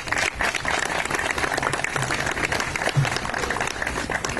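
An audience applauding at the end of a speech, many hands clapping steadily.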